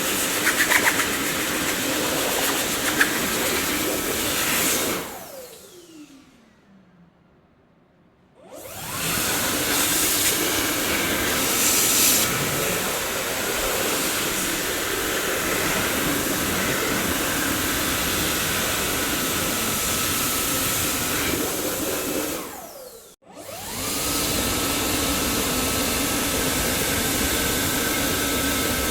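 Dyson vacuum cleaner running with a steady rushing hum. About five seconds in it is switched off, its motor whine falling as it spins down to near quiet, and a couple of seconds later it is switched back on, the whine rising and settling into a steady tone. Later it cuts out for a moment and spins up again.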